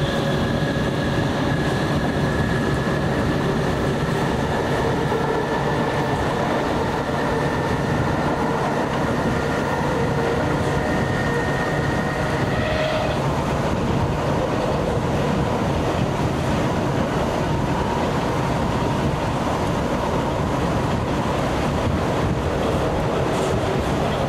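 Onboard running noise of a Class 455 electric multiple unit travelling at speed: a steady rumble of the wheels on the rails. A faint whine slowly rises in pitch and stops about halfway through.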